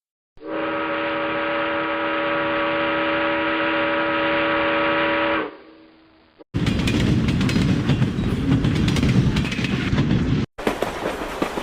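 A train horn sounds one long, steady chord of several notes for about five seconds, then fades away. After a short pause come the rumble and rapid clanking of train wheels rolling over the rails. The clanking breaks off for a moment near the end and picks up again.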